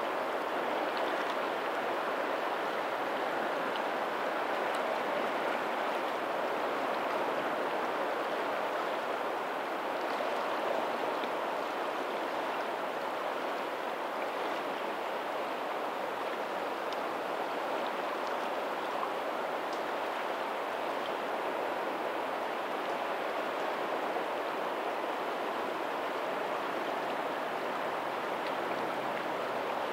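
Steady rushing flow of a lagoon's tidal outflow running along a pebbly shore, with faint ocean surf blended in behind it. The level stays even, with no distinct wave breaks.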